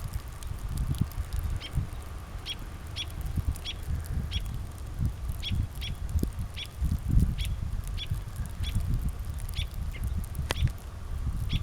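A small bird calling over and over with short, high chirps, roughly two a second at uneven spacing. Underneath is a low, uneven rumble.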